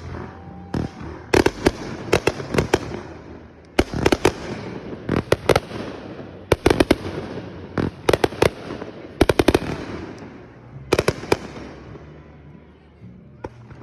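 Aerial fireworks bursting close overhead: a quick cluster of sharp bangs about every second or so, each followed by a fading hiss.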